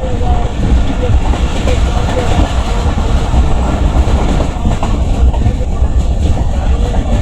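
Express passenger train passing close by at speed: a loud, steady rumble of wheels on the rails with a clatter over the rail joints.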